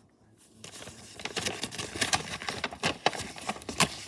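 Blind-bag packaging being handled and opened by hand: irregular crinkling and rustling with sharp clicks and taps, the loudest near the end.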